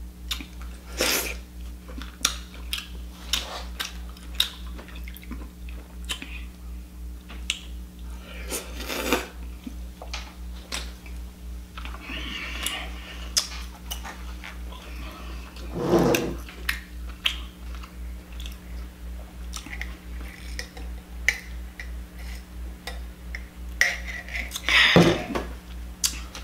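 Close-up eating sounds: a person chewing lobster meat, with many small wet clicks and a few louder smacks, over a steady low hum.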